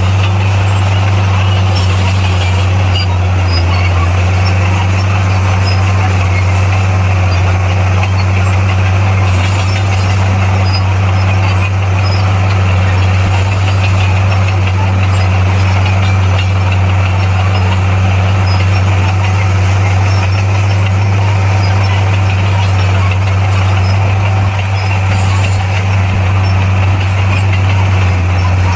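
Bulldozer's diesel engine running steadily at constant revs with a deep, even drone.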